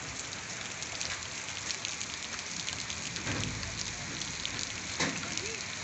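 Steady rain falling, a constant hiss dotted with many small drop ticks, heavy enough that the rain is called very heavy. A brief thump sounds about five seconds in.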